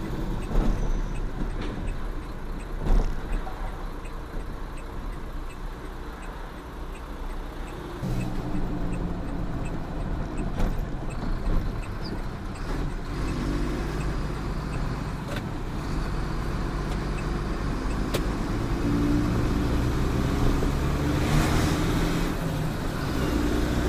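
Truck engine and road noise while driving, a steady low rumble; about eight seconds in, the engine's note comes up more strongly and holds.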